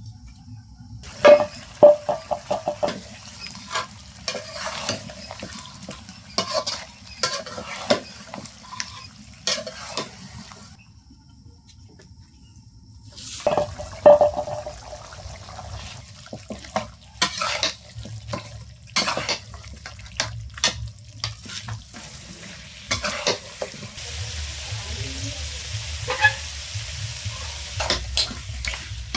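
Food frying in a pot, stirred with a metal spoon that scrapes and clicks against the pot in irregular strokes, with a short pause about halfway through. A steady sizzle comes up near the end.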